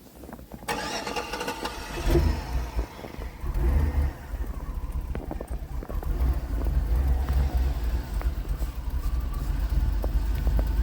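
LS V8 engine starting about a second in, catching and running with a heavy low rumble and revs, during a brief burnout attempt. The engine is still cold, which cuts the burnout short.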